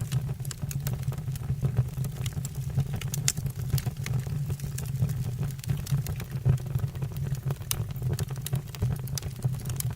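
Wood fire burning in a fireplace: a steady low rumble from the flames, with frequent sharp crackles and pops from the burning logs.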